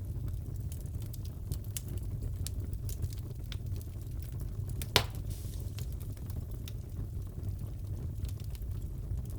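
Wood fire crackling, with many small snaps over a steady low rumble and one louder pop about five seconds in.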